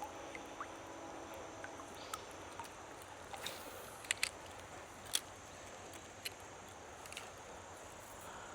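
Faint steady creekside hiss with a handful of short sharp clicks and taps, from working a treble-hook lure that is tangled in a landing net.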